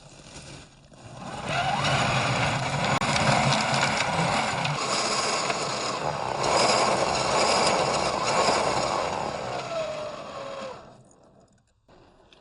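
1/10-scale RC crawler's electric motor and geared drivetrain whining under throttle, the pitch rising and falling as the truck speeds up and slows. It starts about a second and a half in and dies away near the end.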